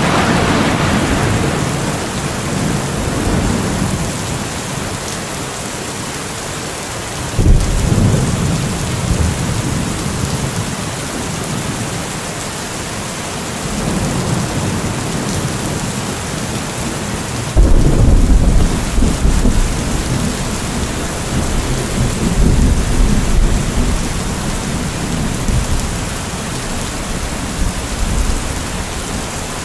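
Steady rain falling through a thunderstorm, with thunder rumbling on and off; two thunderclaps break in suddenly, about seven and eighteen seconds in, the second the loudest, each rolling away into a long low rumble.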